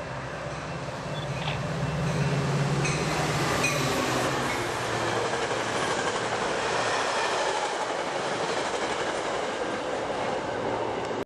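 A train passing close by. A diesel locomotive's low engine drone fades after about four seconds, leaving the steady rush and clatter of railcar wheels on the rails, with a few sharp clicks in the first few seconds.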